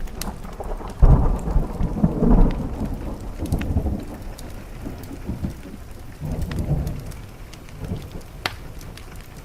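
Rolling thunder starts suddenly about a second in, is loudest for the next couple of seconds, then rumbles on and fades. Under it is steady rain, with the sharp pops and crackles of a wood fire.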